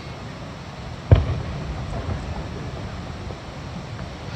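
Firework shell bursting with one loud boom about a second in, its rumble trailing off; a second boom comes at the very end.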